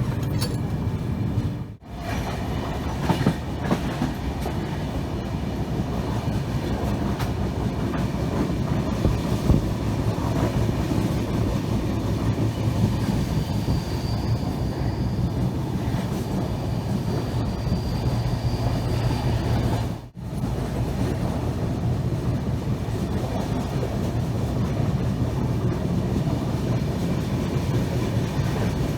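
Indian passenger train running on the rails: a steady rumble with wheel clatter. The sound cuts out briefly twice.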